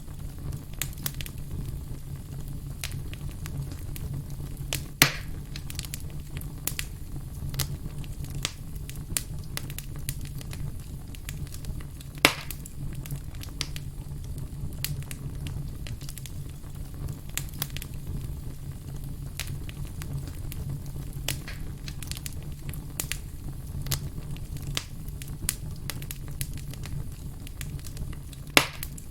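Wood fire crackling over a low, steady rumble, with many small snaps and three louder pops: about five seconds in, about twelve seconds in, and near the end.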